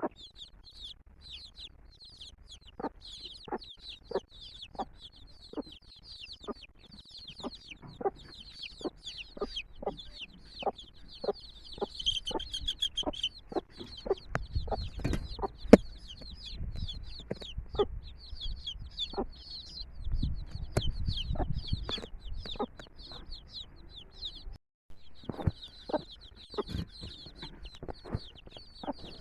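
A brood of chicks peeping continuously, high and rapid, while the mother hen clucks in short, repeated clucks about two or three times a second. A low rumble comes in for several seconds around the middle.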